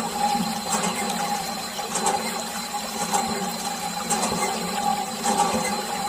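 Small DC water pump motor running steadily while water splashes and pours, with a faint tick about once a second.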